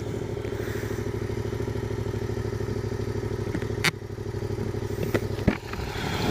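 2016 Yamaha MT-07 (FZ-07) 689 cc parallel-twin engine idling through its stock exhaust with a steady, even pulse. A few sharp knocks land about four seconds in and a second later.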